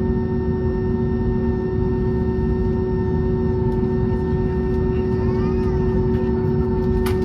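Cabin noise of an Airbus A320neo taxiing on one engine: a steady rumble with a held humming tone. A sharp click comes near the end.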